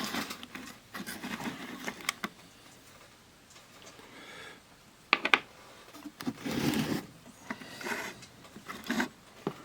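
Scattered light clicks and brief rustles of small tools and a thin wire being handled on a workbench, with a sharper click about five seconds in.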